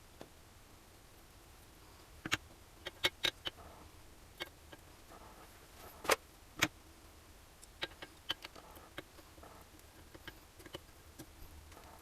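Hand tools and small engine parts being handled during engine assembly: irregular sharp clicks and knocks, several in quick succession about two to three seconds in and two louder ones around six seconds, over a low steady hum.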